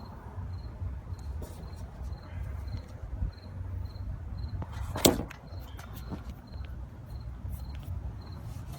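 Cricket chirping steadily, short high chirps about twice a second, over a low rumble, with one sharp click about five seconds in.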